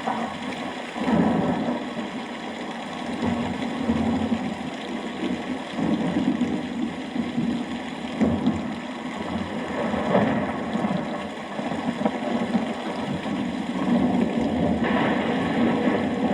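Steady rain with thunder rumbling low in repeated rolling swells.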